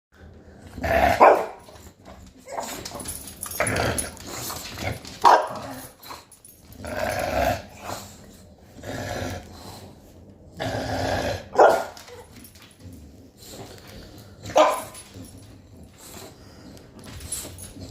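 Puppy growling and barking in play with a toy: stretches of rough growling broken by four sharp barks.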